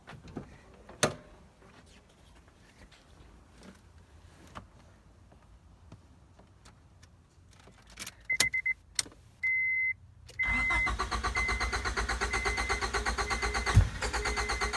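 A Honda Accord's starter cranking the engine over with an even, rapid chug, about four to five beats a second, without it catching: a crank-but-no-start. A warning chime beeps several times just before and during the cranking, and a few clicks come earlier, with one sharp knock near the end.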